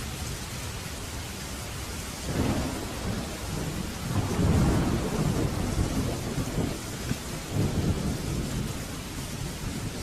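Steady heavy rain hissing, with a roll of thunder that swells about two seconds in, peaks midway and rumbles away over several seconds.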